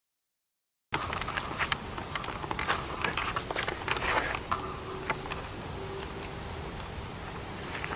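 About a second of dead silence, then irregular clicks and crackling rustle, with a faint steady low hum for a couple of seconds in the second half.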